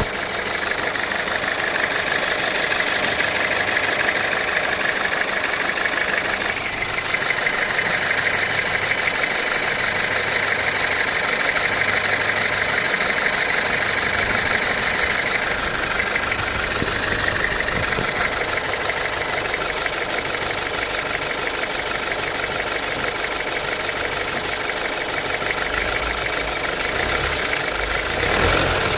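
2018 Audi A3 1.5 TFSI four-cylinder turbo petrol engine idling with a steady, rapid ticking that the owner calls a weird ticking noise. The sound swells briefly near the end.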